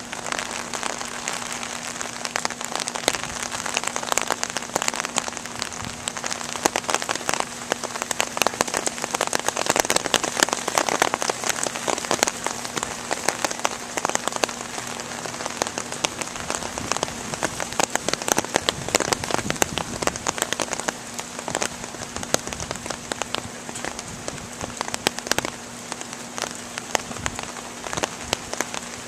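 Rain falling steadily during a thunderstorm, with dense sharp ticks of drops striking close by.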